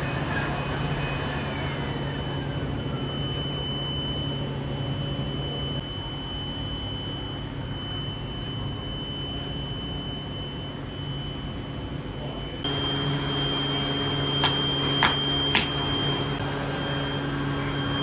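Machinery running steadily with a low hum and a high, steady whine. About two-thirds of the way through the sound jumps to a slightly louder, busier run, and a few sharp metallic clicks follow.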